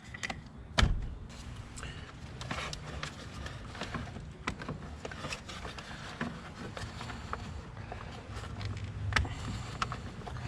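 Scattered clicks, taps and knocks of hands and tools working on a car, with one louder knock about a second in.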